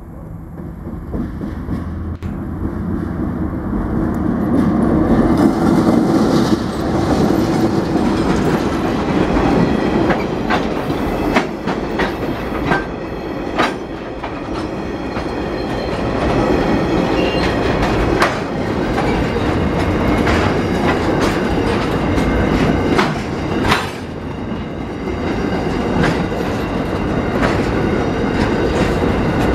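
TasRail TR02 diesel-electric locomotive running past close by, its engine rumble building over the first few seconds. Then empty ballast wagons roll by with a steady clickety-clack of wheels over rail joints and scattered sharp clanks.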